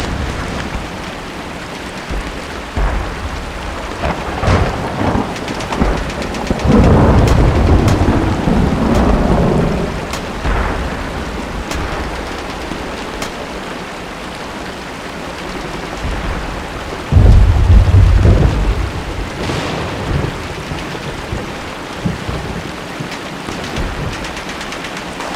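Steady rain with rolling thunder. A long rumble comes about seven seconds in, a deeper, heavier one a little past halfway, and scattered sharp cracks fall between them.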